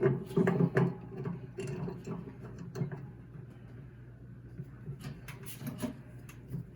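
Scattered light clicks and knocks of washer parts being handled during the seal and hub work, over a low steady hum.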